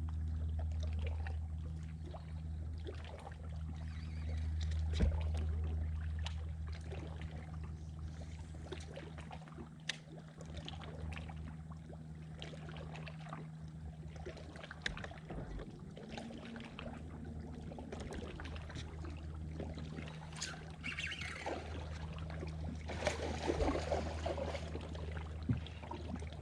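Boat motor running with a steady low hum, with scattered small clicks and light water sounds over it. A louder rush of noise comes near the end.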